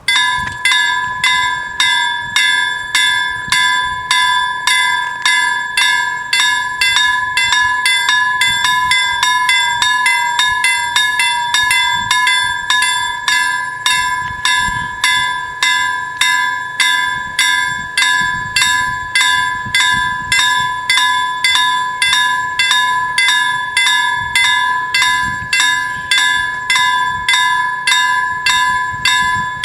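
Level-crossing warning bells start up suddenly and ring on steadily, the crossing's two bells striking about twice a second. Their strokes drift in and out of step.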